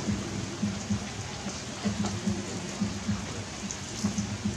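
Rain falling steadily, with irregular louder drop hits close by.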